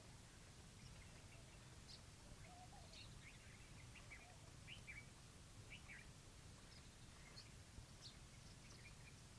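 Faint, short bird chirps at irregular intervals, over a low steady rumble.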